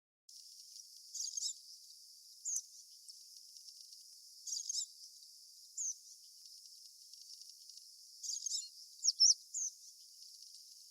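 Jungle babblers giving short, high, squeaky chirps in scattered clusters of one to three notes, over a steady high insect hiss.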